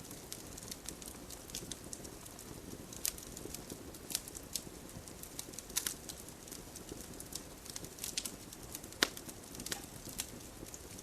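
Wood fire in a fireplace crackling, with irregular sharp pops and snaps over a low steady rush of the flames; the loudest pop comes about nine seconds in.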